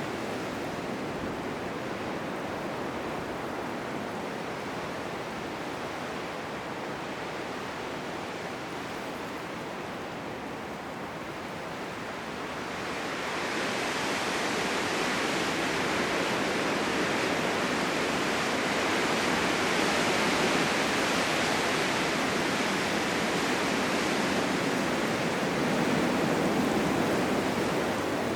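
Blizzard wind blowing as a steady rushing noise, growing louder and hissier about halfway through and staying so.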